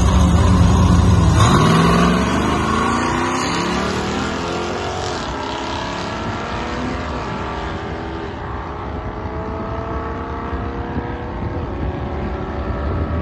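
A 1974 Oldsmobile Omega's fuel-injected engine at full throttle, launching on a drag-strip pass. Its note climbs as the car accelerates hard away and gets quieter with distance.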